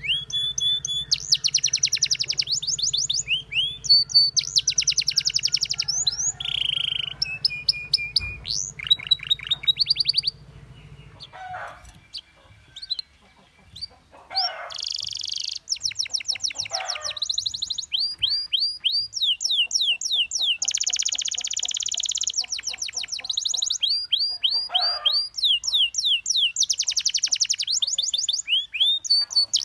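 Canary song: phrases of fast, rapidly repeated rising notes, strung into trills, with a short break about eleven to fourteen seconds in where only a few softer calls are heard. A low hum runs under the first third and stops about eleven seconds in.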